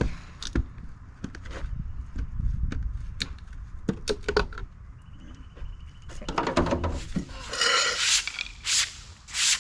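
Irregular metallic clanks and knocks of tools and a wheel being handled during tire work, with a few short rushing bursts of noise near the end.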